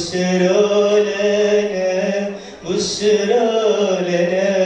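A man singing solo, holding long, wavering notes of an Arabic Christmas hymn, with a short breath about three seconds in.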